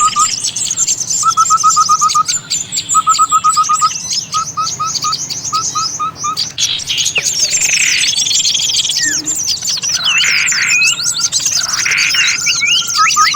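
A chorus of many small birds calling at once, used as a bird-lure (pikat) recording: dense high chirping and twittering throughout. In the first few seconds a short run of quick, evenly spaced notes repeats about every second and a half, and it returns near the end. Several harsh, buzzy calls come in the second half.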